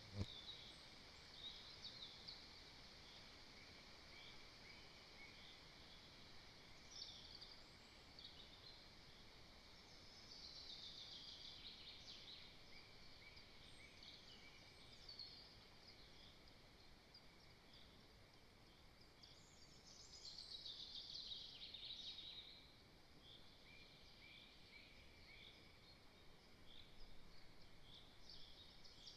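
Faint songbirds singing in the forest around the nest: scattered high chirps, with two longer, louder bursts of song about a third and two thirds of the way through, over a faint steady high hum. A single brief thump right at the start.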